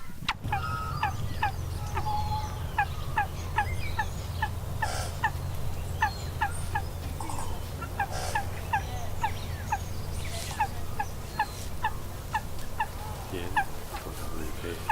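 A bird calling a long, steady run of short clipped notes, about three a second, with a couple of brief pauses, over a steady low rumble.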